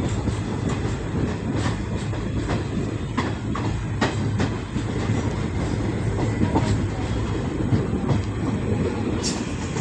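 Passenger train running at speed, heard from aboard a coach: a steady rumble of wheels on the rails with sharp clicks now and then, a couple of the loudest near the end.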